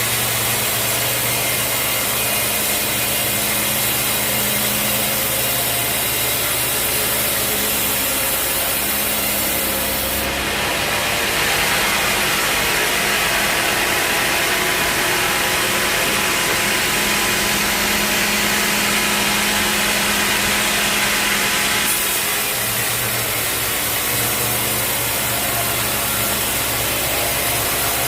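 A sawmill sawing a teak log, the blade running steadily in the cut over the mill's engine. The sound changes abruptly about ten seconds in, growing brighter, and switches back about twelve seconds later.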